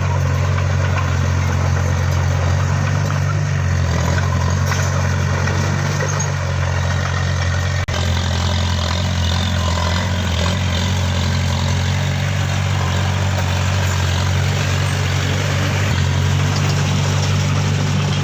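Steady low engine-like idling drone, with a brief dip and a click about eight seconds in.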